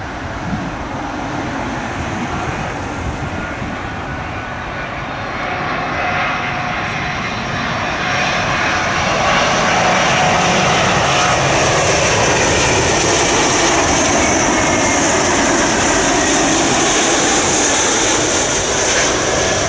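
Jet airliner on final approach to land, its engines growing louder from about six seconds in and staying loud as it passes close by, with a high whine and faint tones sliding in pitch.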